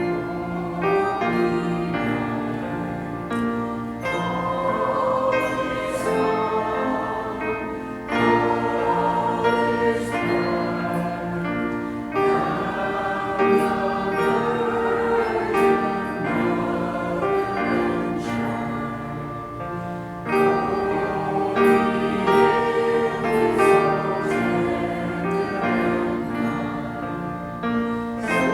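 A choir singing, in sustained phrases that change every few seconds.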